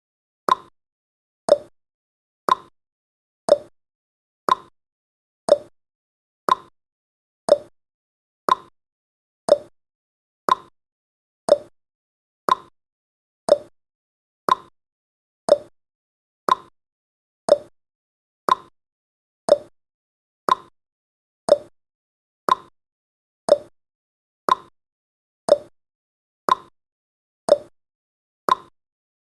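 Countdown timer's clock-tick sound effect: a short sharp tick once every second, alternating slightly in pitch like a tick-tock.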